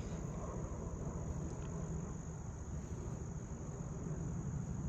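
Crickets trilling steadily at a high pitch over a continuous low rumble of background noise.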